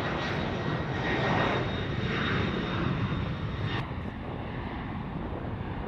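Jet aircraft engines running: a steady rush with a faint high whine, turning duller about four seconds in.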